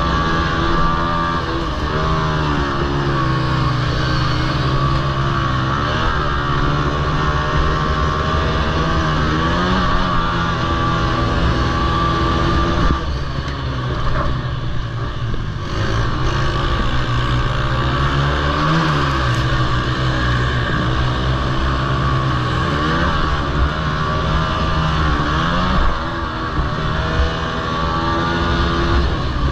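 Several Honda TRX90 quads' small four-stroke engines racing together, their pitch rising and falling over and over as the riders accelerate, shift and back off for corners. The sound dips for a couple of seconds about halfway through.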